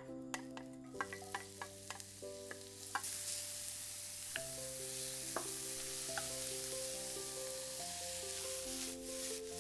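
Scallions and onion hitting hot oil in a wok and sizzling as they are stirred with a wooden spoon, with sharp taps and scrapes of the spoon early on. The sizzle starts about a second in and grows louder about three seconds in, then holds steady. Background music plays underneath.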